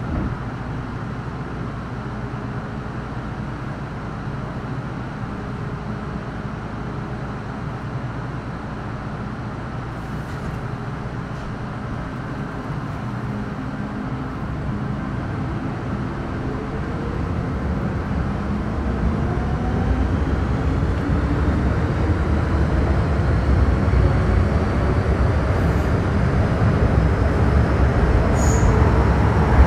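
Metro Cammell M-Train EMU with GEC GTO chopper traction control, heard on board, pulling away from a station. From about halfway several whining tones rise together in pitch and the running rumble grows louder as the train accelerates.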